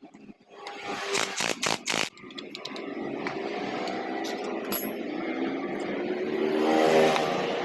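A few sharp knocks about a second in, then a small motorcycle engine running steadily, getting louder near the end.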